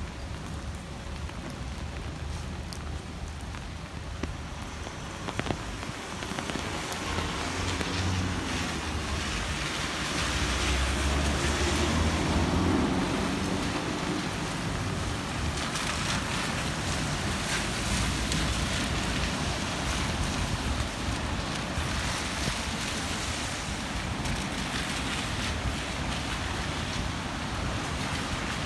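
Steady rain falling. A low rumble swells and fades around the middle.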